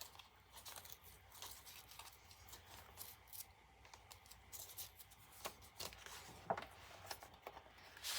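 Faint rustling and scraping of paper pages and pockets in a handmade journal being handled and flipped, with a few louder scrapes in the second half.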